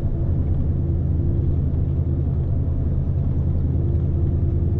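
Steady low drone of a Scania S520 truck's V8 diesel and its drivetrain heard inside the cab while driving under load.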